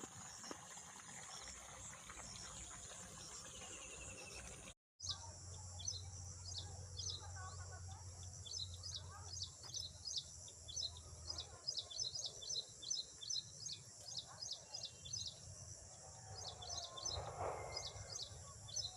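Small birds chirping: quick, high, repeated chirps several times a second over a steady high hiss. The sound drops out for a moment about five seconds in, and the chirping then starts up.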